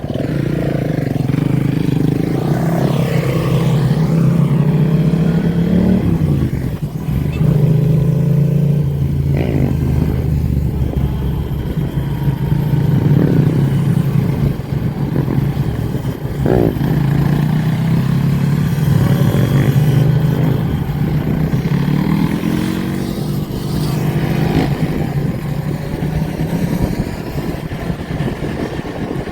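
Motorcycle engines running and revving, with the pitch rising and falling several times.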